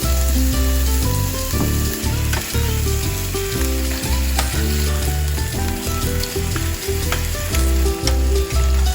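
Food frying in hot oil in a pan, a steady sizzle with a few clicks and scrapes of stirring. Background music with a strong bass line plays underneath.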